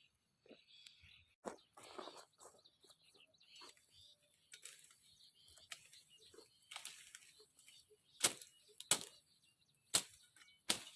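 Leaves and branches rustling, broken by a run of irregular sharp snaps and cracks, the four loudest coming in the last three seconds.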